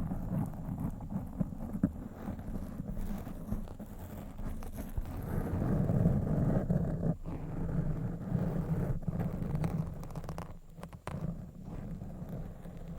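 Scratching and rubbing directly on a microphone, a dense, rough, low-heavy rustle with scattered small clicks. It eases briefly about ten seconds in.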